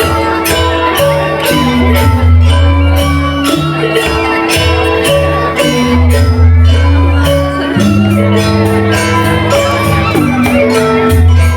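Balinese gamelan music: bronze metallophones playing a melody of ringing, held notes over deep low tones, with rapid metallic cymbal-like strikes throughout.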